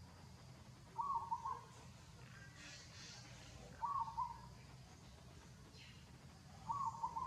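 A bird call, a short burst of a few quick notes, repeated three times about three seconds apart, over a steady low background rumble.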